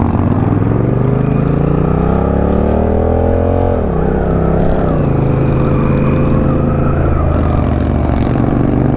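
Honda Rebel 1100 DCT's parallel-twin engine accelerating, its pitch rising for nearly four seconds, then dropping sharply as the dual-clutch transmission shifts up, with a second upshift about a second later. It then holds a steady pitch.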